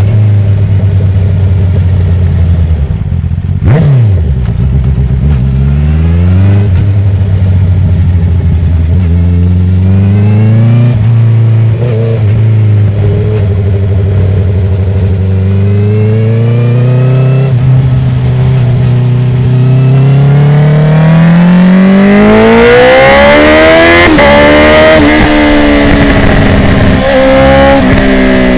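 2019 Honda CB650R's inline-four engine through an open Akrapovic titanium full exhaust with the dB killer removed, accelerating hard. About four seconds in, the revs drop sharply and climb again in a quickshifter upshift, then the pitch rises in long pulls through the gears, with wind rush building in the second half and a few quick dips in revs near the end.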